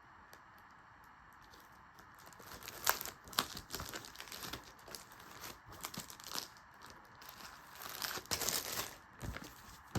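Packaging crinkling, rustling and tearing in irregular bursts as a box of party supplies is unpacked, starting about two seconds in.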